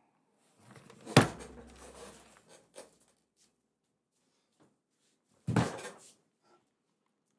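Two heavy knocks in a small room: a sharp bang about a second in, followed by a low rumble and a few smaller knocks, then a second dull thud about five and a half seconds in.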